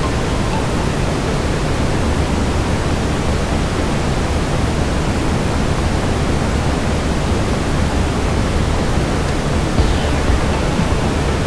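Steady brown noise, strongest in the low end, mixed with a fireplace ambience, with a few faint crackles about ten seconds in.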